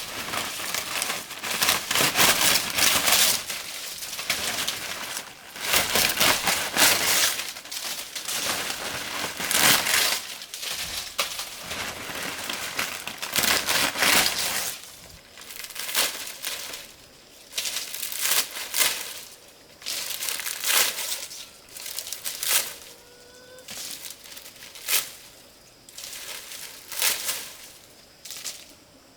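Irregular bursts of rustling and crinkling, like dry leaves or similar material being handled, with short pauses between them that grow longer towards the end.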